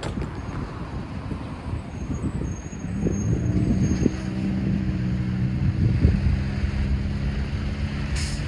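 A large engine running with a steady low hum that comes up about three seconds in and holds.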